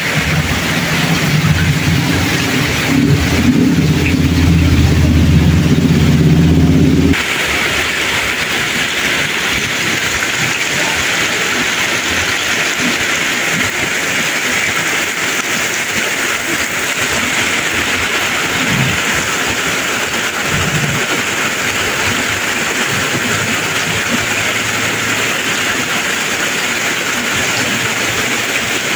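Torrential rain falling in a steady hiss. For the first seven seconds a loud, low hum sits under it, then stops abruptly.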